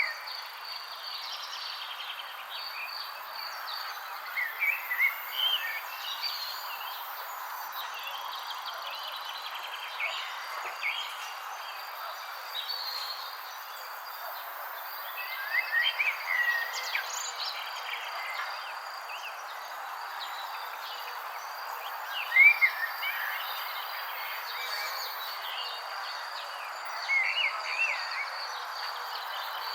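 Birds chirping in short clusters of quick rising and falling notes, four or five times, over a steady outdoor hiss and a continuous high insect trill.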